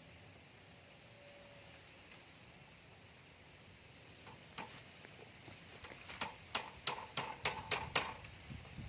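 Hammer striking nails: one sharp knock about halfway, then a quick run of about seven even strikes, roughly three a second, near the end.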